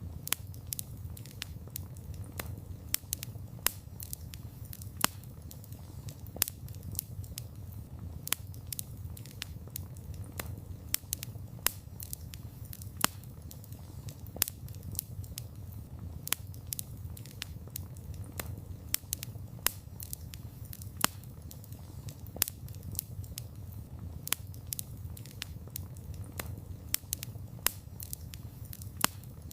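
Wood campfire crackling, with many sharp irregular snaps and a few louder pops over a steady low rumble of the flames.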